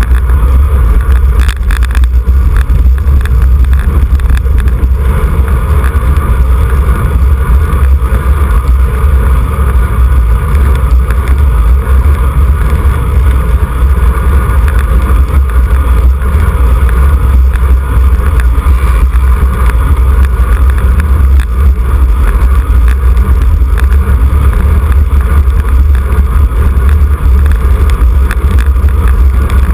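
Strong wind buffeting on the microphone of a camera riding along on a road bicycle at race speed: a loud, steady low rumble with a rough hiss above it.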